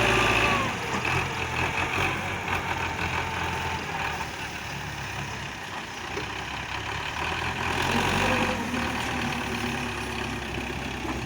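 Tractor engine running steadily, getting a little quieter about a second in and louder again around eight seconds.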